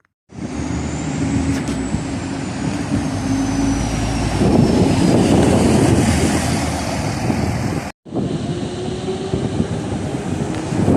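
A vehicle running close by: steady noise, with a high whine that falls slowly in pitch over the first few seconds. The sound starts abruptly and breaks off for a moment about eight seconds in, at a splice.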